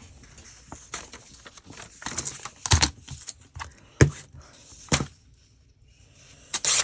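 Paper and card being handled on a work table: light rustling and clicks, three sharp knocks about a second apart, then a short papery swish near the end.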